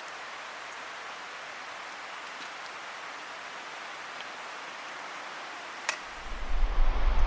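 Campfire cooking: a steady hiss with a few sharp crackling pops, the loudest near the end. A loud low wind rumble on the microphone starts just before the end.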